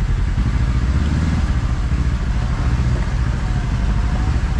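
Kawasaki KRX side-by-side's parallel-twin engine running steadily at low speed, heard from on board.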